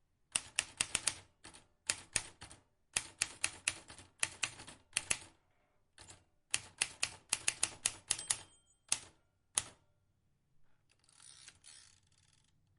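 Vintage manual typewriter being typed on: sharp key strikes in quick runs of three to six, with short pauses between runs. A faint bell ding sounds about eight seconds in, and a longer rasping rattle follows near the end.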